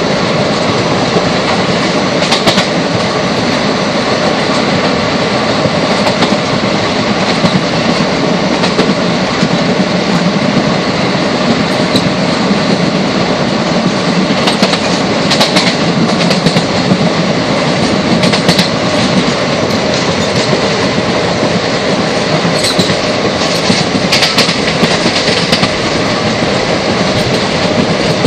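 Train running at speed, heard from inside a carriage: a loud, steady rumble of wheels and carriage with scattered sharp clicks and knocks from the wheels on the track.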